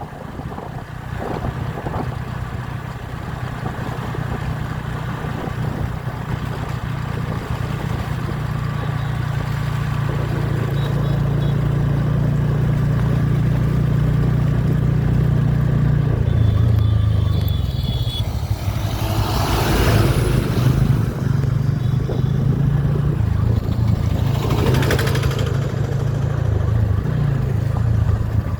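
Motorcycle engine running while riding, a steady low drone that grows gradually louder, with a change in engine note about sixteen seconds in. Two brief rushes of noise come near the end.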